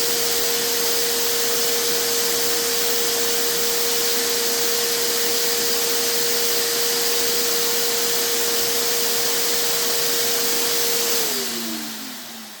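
Vacuum cleaner motor running steadily on blow, pushing air into a motorcycle exhaust that has been blocked to build pressure for a soap-bubble leak test. Near the end it is switched off and its whine falls in pitch as it winds down.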